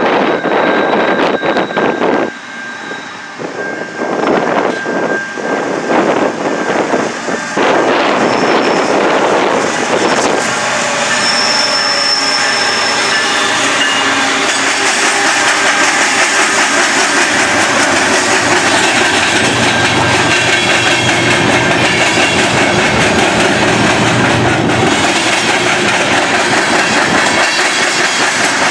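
A train passing close by: steel wheels clattering over the rail joints, settling into an even beat of passing cars, with a brief high wheel squeal.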